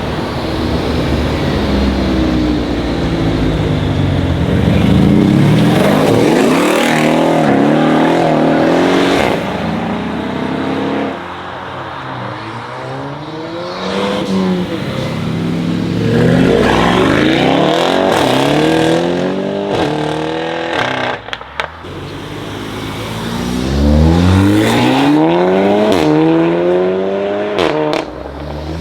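Performance car engines accelerating hard past one after another, each rising in pitch as it revs up, with short breaks in the sound between the rises. Loud throughout, with three main rising pulls.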